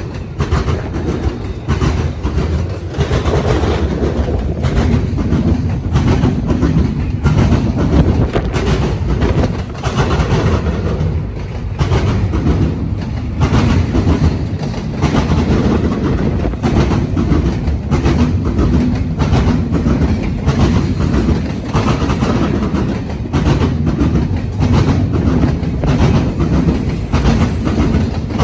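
Freight train rolling past, its wheels banging over railroad diamond crossings in a continual rapid clatter.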